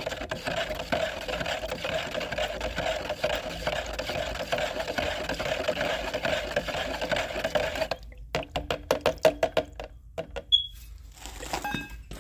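Boiler cleaner solution being stirred in a small bucket: a steady, rapid swishing and scraping for about eight seconds, then a run of quick clicks and knocks.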